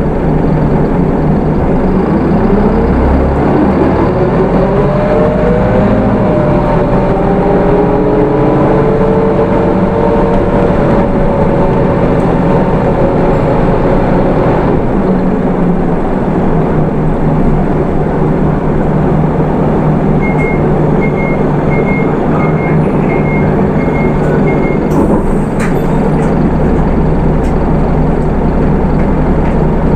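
Hino Rainbow II bus's 4HK1 diesel engine and automatic transmission pulling away, with a rising whine over the first several seconds as it gathers speed, then running steadily. About two-thirds of the way through, a row of about seven short high beeps sounds, followed by a click.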